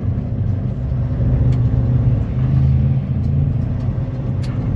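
Semi truck's diesel engine running steadily while driving, with a low hum and road noise underneath.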